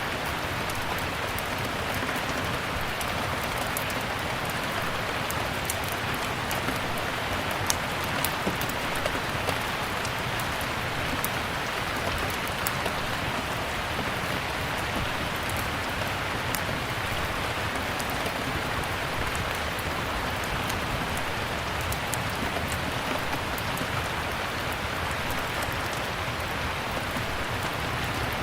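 Steady rain, with many small sharp crackles of a wood fire scattered over it.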